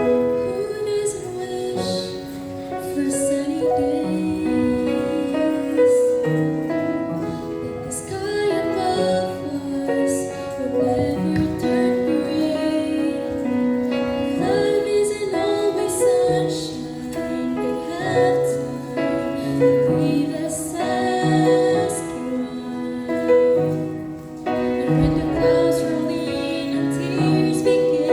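A woman singing a gospel song with piano accompaniment.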